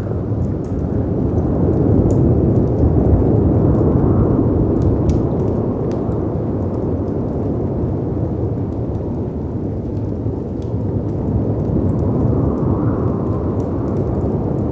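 Dense low rush of storm wind and crashing sea waves that swells about two seconds in and again near the end, with a faint howl rising and falling in the wind. Sharp crackles and pops of a wood fire sound scattered over it throughout.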